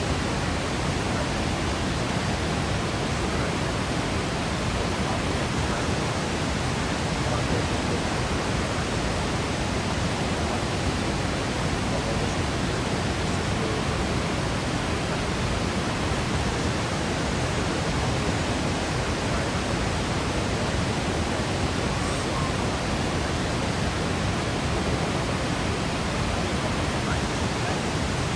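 Steady rush of falling water from a Yosemite waterfall: an even, unchanging noise across all pitches with no breaks or separate sounds.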